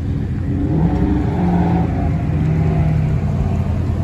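A car engine running close by over a steady low rumble. It revs up about a second in and holds the higher pitch for a couple of seconds.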